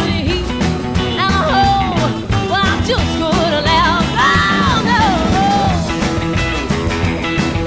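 Rockabilly band playing live at a fast, driving tempo, with a lead line that bends and wavers in pitch over the backing.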